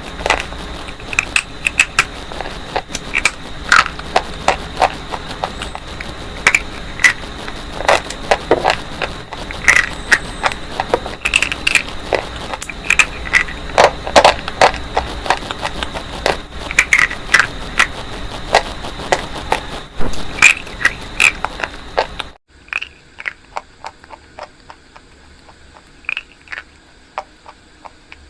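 Something brittle being crushed: a dense, loud run of sharp crunches and crackles that drops suddenly about 22 seconds in to a much quieter, sparser crackling.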